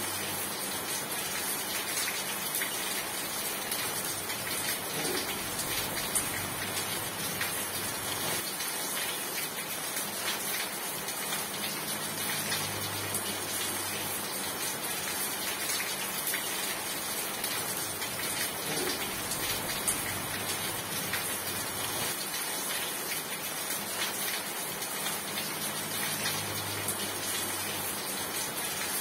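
Steady rain falling: a continuous hiss with the patter of many individual drops hitting a surface.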